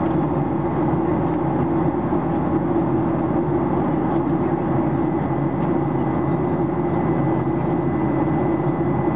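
Steady drone inside the cabin of a Boeing 737-800 in flight, from its CFM56-7B engines and the airflow over the fuselage, with a faint steady high tone over it.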